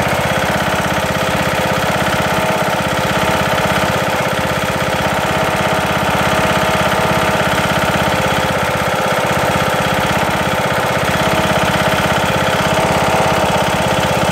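Briggs & Stratton lawn tractor engine running steadily with a loud, fast, even knocking. The knock began after the camshaft and timing gear were replaced, and goes in time with a faint wobble that the owner thinks comes from something loose or out of alignment.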